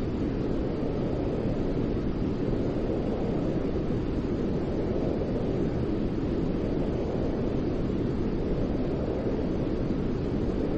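Steady white noise with a deep tone, most of its weight low down and little hiss up top, holding even without change, played as a sleep sound to soothe a colicky baby.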